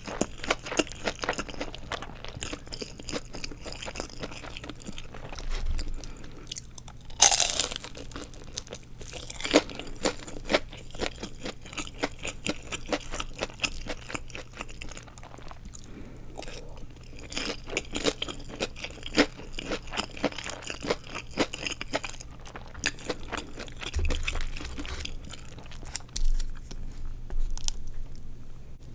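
Close-miked bites and chewing of crispy deep-fried nori rolls filled with glass noodles, with irregular crunches throughout. A loud crunch comes about seven seconds in.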